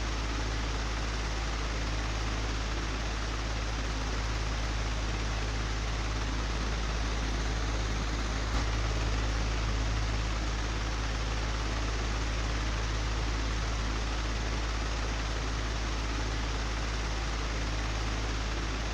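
Old, broken fan running steadily: a low hum under an even whoosh of moving air, with one faint tick about eight and a half seconds in.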